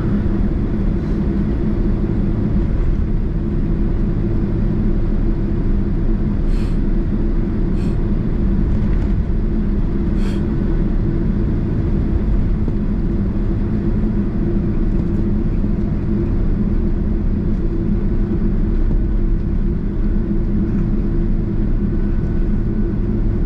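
Cabin noise of a Boeing 767 taxiing to its stand after landing: a steady low rumble, with a few faint clicks or rattles about seven to ten seconds in.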